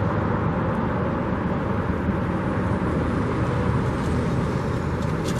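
Steady rumble of road traffic passing on the street.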